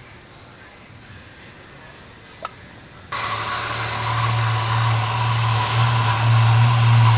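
A shop vacuum switches on about three seconds in and runs steadily: a loud rushing noise over a low motor hum. A single short click comes just before it starts.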